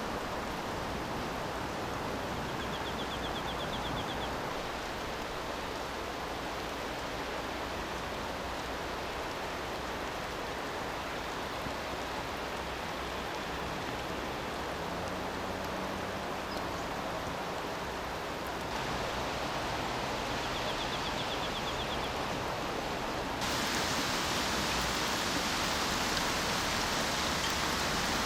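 Steady rain falling outdoors, an even hiss that grows louder in two sudden steps, the second adding more high hiss. A faint, short, high trill shows twice.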